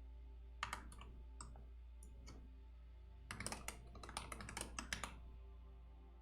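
Typing on a computer keyboard: a few separate keystrokes in the first two seconds or so, then a quick run of keystrokes from about three to five seconds in. Faint steady background music runs underneath.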